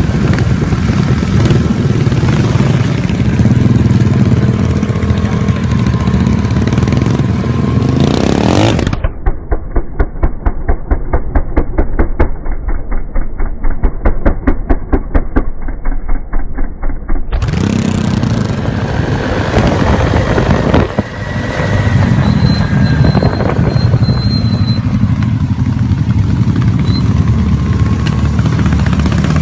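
Motorcycle engines running, in edited sections. About nine seconds in there is a stretch of an engine idling with a steady, even pulse, before a running engine takes over again.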